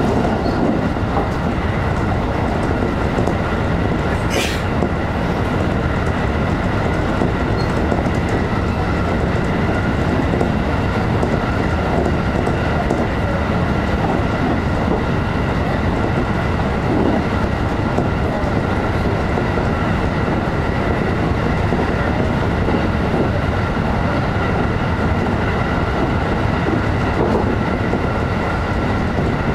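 Electric train running steadily at speed, heard from inside the front car: an even rumble of wheels on rail with a steady high hum of several tones. A brief high-pitched sound cuts through about four and a half seconds in.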